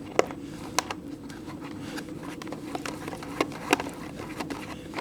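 Scattered light clicks and taps of a cockpit canopy being handled and pinned in place on a model aircraft fuselage, over a steady faint hum.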